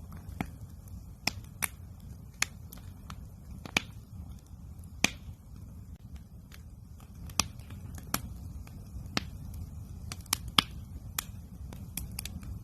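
Wood fire crackling: irregular sharp pops and snaps, some louder than others, over a steady low rumble.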